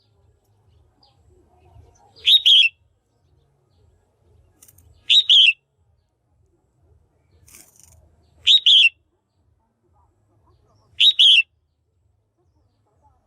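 Female red-whiskered bulbul calling: a short, loud, double-noted chirp repeated four times, about every three seconds. It is a call used to stir up male bulbuls.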